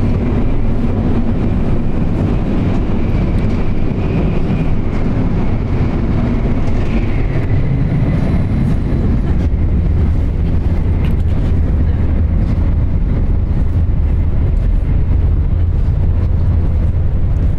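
Steady low rumble of a Shinkansen bullet train running at speed, heard from inside the carriage.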